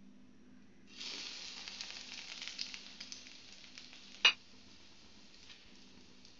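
An egg-soaked slice of bread sizzling in hot oil in a frying pan: the sizzle starts suddenly about a second in as the bread goes in, loud at first, then settles to a quieter sizzle. A single sharp tap a little past four seconds in is the loudest sound.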